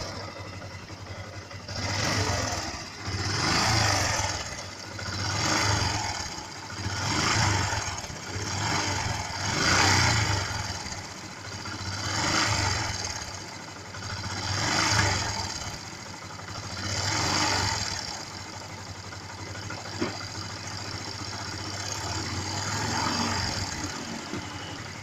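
Yamaha Byson motorcycle's single-cylinder engine running, revved up and let back down about every two and a half seconds, then left to idle for the last several seconds. Its engine noise is that of a loose valve guide, as the owner takes it.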